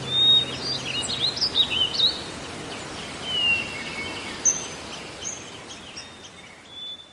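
Wild birds chirping and whistling in short, quick calls over a steady outdoor hiss, fading out near the end.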